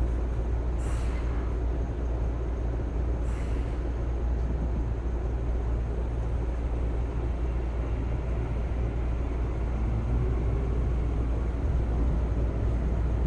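Electric commuter train heard from inside the carriage as it starts to pull out of the station: a steady low rumble and hum, with two short hisses of air from the brakes in the first few seconds. A motor tone rises near the end as the train gathers speed.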